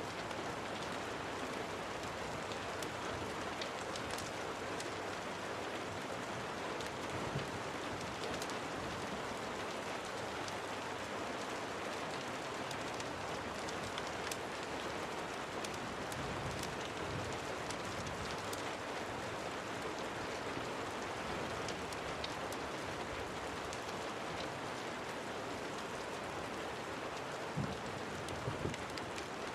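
Steady rain falling as an even hiss, with scattered sharp ticks through it and a few soft low knocks near the end.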